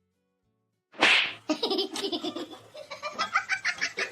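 A sudden short burst of noise, then a person laughing in quick repeated bursts.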